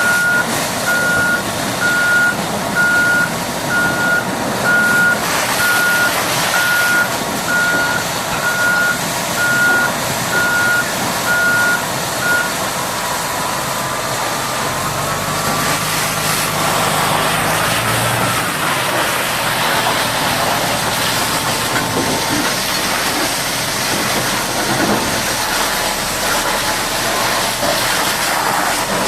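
Heavy machine's reverse alarm beeping about once a second, stopping about twelve seconds in, over a continuous diesel engine sound. Later the engine note rises and falls.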